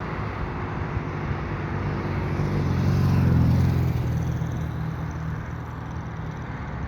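A motor vehicle passing by, its low engine hum swelling to a peak about three and a half seconds in and then fading.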